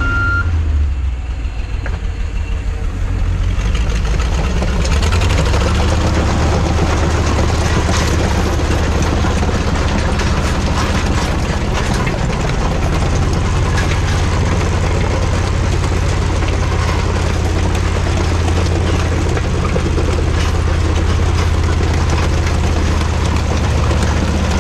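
Tucker Sno-Cat running as it drives: a steady low engine hum under a dense rattle. It dips briefly about a second in, then picks up and holds steady.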